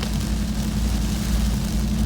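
Inside the cab of a Ram 1500 TRX driving on a wet road: a steady low drone from the supercharged V8 and the road, with a hiss of tyres and rain over it.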